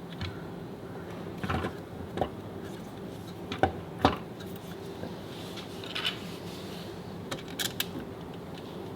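Scattered light clicks and knocks of metal tools and parts being handled, with the two loudest knocks about three and a half and four seconds in, over a steady low hum.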